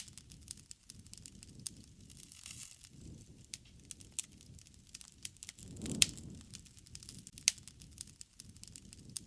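Wood fire burning, with irregular sharp crackles and pops over a soft low rumble of the flames; the loudest pop comes about six seconds in.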